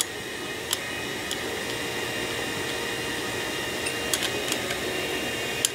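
A few light, sharp metallic clicks of small Corvair distributor parts being handled as the advance springs are fitted, over a steady background hum.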